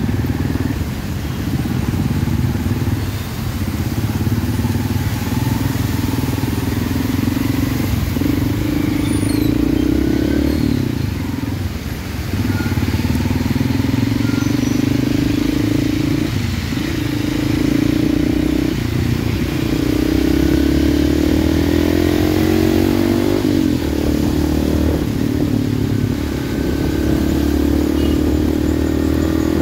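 Hero Xpulse motorcycle's single-cylinder engine running while riding, its pitch dipping and climbing several times with the throttle and gear changes, over steady wind and tyre noise on a wet road.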